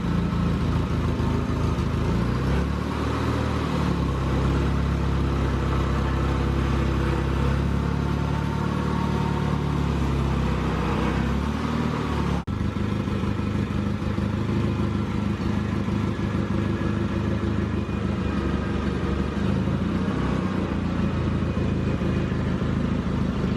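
A motor vehicle engine running steadily, its pitch shifting slightly now and then, with a brief break about halfway through.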